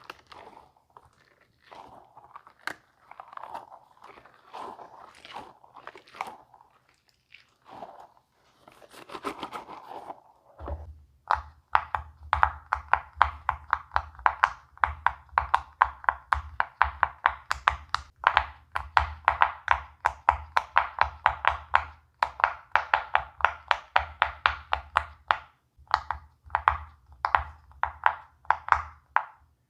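Silicone pop-it fidget toy bubbles being pressed through. For the first third the clicks and soft rustling are scattered and quiet, then a steady run of crisp pops follows at about three a second.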